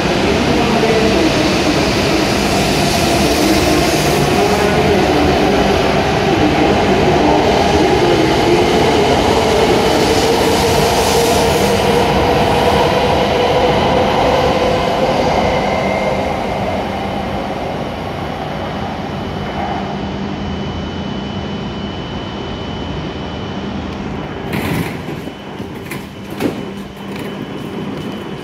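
W7 series Shinkansen train pulling out of the platform, its motors whining up in pitch as it gathers speed over the rumble of the passing cars. The sound eases off after about 17 seconds, and a few sharp knocks come near the end.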